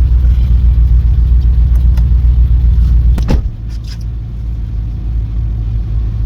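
Loud, low vehicle engine rumble that starts abruptly, with a sharp click about three seconds in, after which the rumble drops in level.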